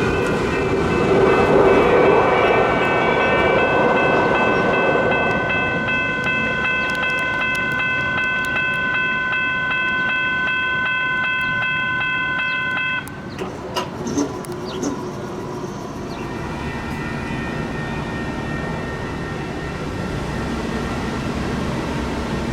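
Light rail train running, with a steady high-pitched whine over the running noise. The whine cuts off suddenly a little past halfway, a few sharp clicks follow, and a fainter whine returns near the end.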